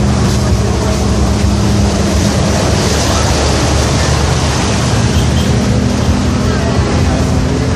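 Steady loud din of a busy outdoor food market, with a low, even hum underneath.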